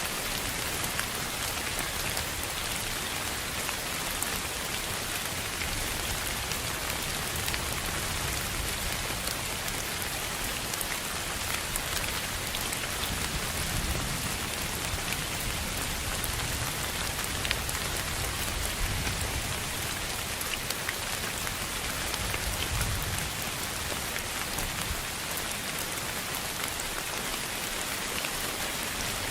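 Continuous, steady hiss of dense noise spread evenly across high and low pitches. Scattered faint ticks run through it, and a low rumble swells briefly twice, near the middle and about three quarters in.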